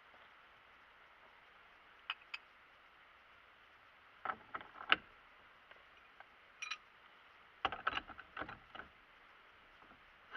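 Scattered sharp clicks and knocks of hard objects: two light ticks, then clusters of louder clacks, with a faint steady background between them.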